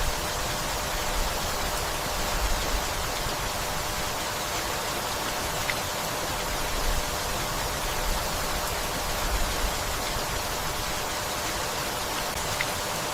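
Gentle rain falling steadily, an even hiss with no breaks.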